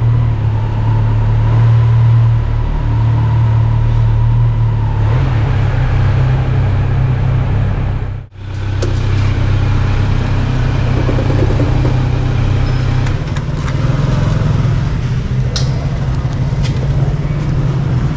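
A motor vehicle on the move: steady low engine and road rumble. The sound drops out abruptly for a moment about eight seconds in.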